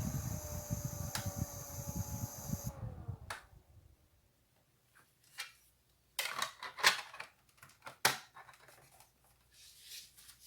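Small fan motor of a USB portable evaporative air cooler running down after being switched off, its hum falling slowly in pitch before a click about three seconds in. Scattered rubbing and knocking handling sounds follow.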